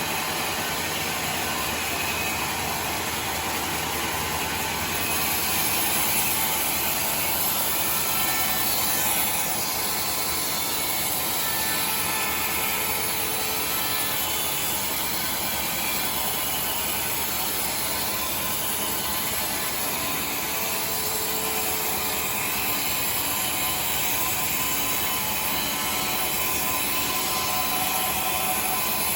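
Sawmill saw running steadily as timber is sawn, a dense, even machine noise that gets a little louder and brighter about five seconds in.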